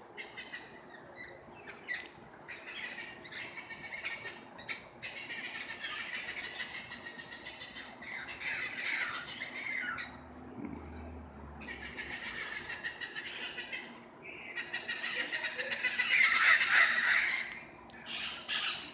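A flock of parrots calling from the treetops, a dense chorus of harsh, overlapping calls that grows loudest near the end.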